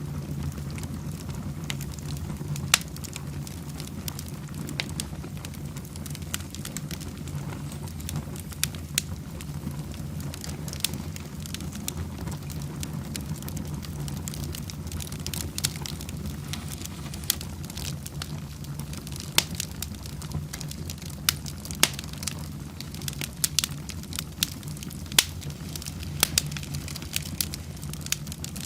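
Wood fire burning in a fireplace, crackling with irregular sharp pops over a steady low rumble, the pops coming more often and louder near the end.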